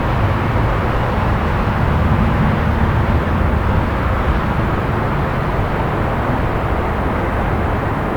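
Steady low rumble of city traffic, a little fuller about two seconds in and easing slightly toward the end.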